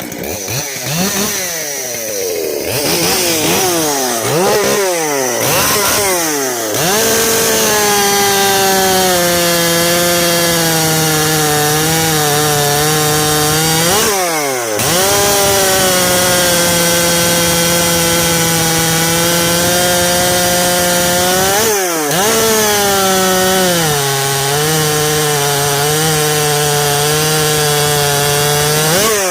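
Ported and milled SOLO 665 two-stroke chainsaw, 81cc with a Dolmar cylinder, blipped through several quick revs and then held at full throttle through long cuts in wood. Its pitch sags slightly under load, drops back briefly twice as the bar is pulled out, and the saw revs down at the end.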